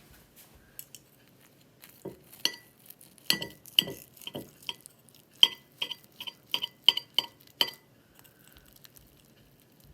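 Kitchen utensils clinking against dishes: a quick run of about fifteen sharp taps with a short ringing tone, starting about two seconds in and stopping a little before the end.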